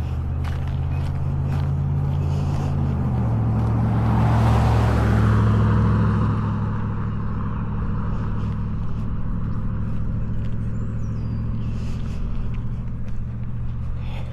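A motor vehicle's low engine drone, its pitch shifting about three seconds in, as a car passes close with tyre noise swelling and fading around four to six seconds in. Faint footsteps on pavement sound along with it.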